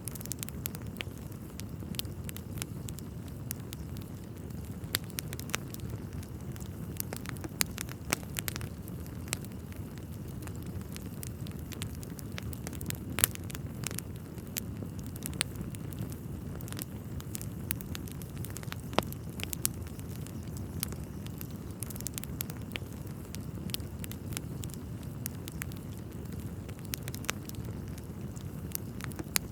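Wood fire burning in a fireplace: a steady low rumble of flames with irregular crackles and a few sharper pops from the burning logs.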